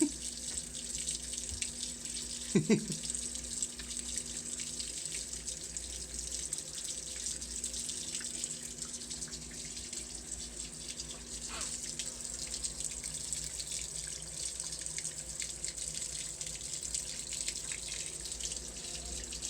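Water running steadily, with a brief louder sound about three seconds in.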